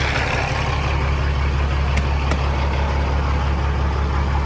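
Peterbilt glider truck's freshly overhauled diesel engine idling steadily as a low, even hum, with two faint ticks about two seconds in.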